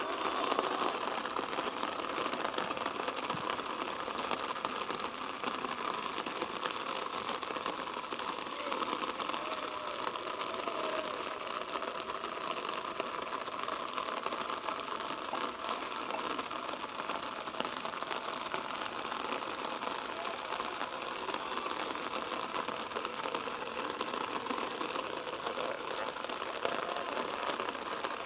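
Steady hiss of open-air ambience over a rugby ground, with faint distant voices.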